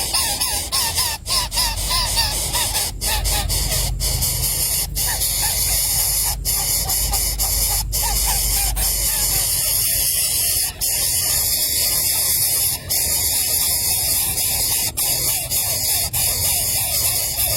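Crow nestlings squealing in quick, repeated short calls over a loud, steady hiss; the calls die away about halfway through.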